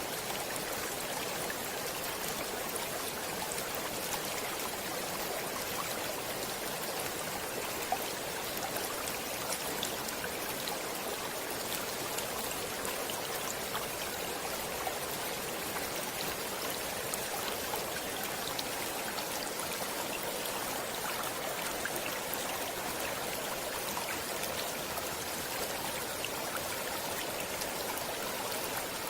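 Stream water flowing steadily, a continuous rushing with fine splashing and trickling detail.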